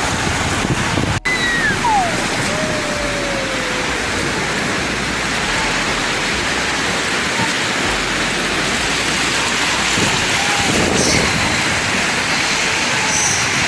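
Steady rushing noise of small waves washing on the shore. About two seconds in, a faint, single falling call glides down in pitch.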